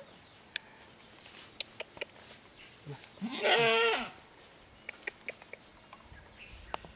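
A goat bleating once, a quavering call just under a second long about three seconds in, with faint scattered clicks and taps around it.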